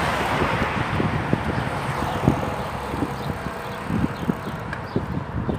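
Wind rushing over the microphone of a bicycle-mounted camera while riding, with many short knocks and rattles from the bike and its camera mount over the road surface.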